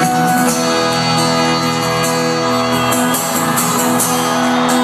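Live folk-rock band playing an instrumental passage between sung lines, loud and steady, with sustained chords over a driving rhythm.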